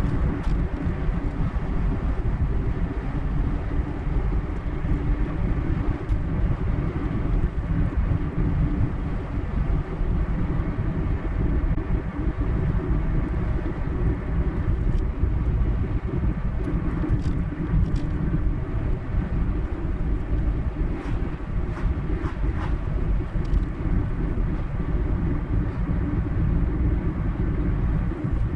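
A car driving at steady speed: continuous low tyre-and-road rumble with engine noise, with a few faint clicks in the second half.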